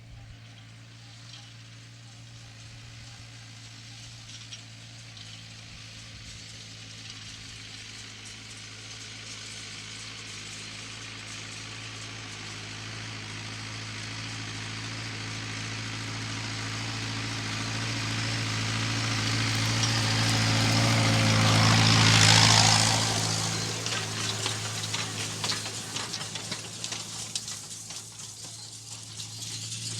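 Tractor diesel engine running at a steady speed, growing louder as it approaches, passing close about two-thirds of the way through, then fading away with a rattling clatter as it goes.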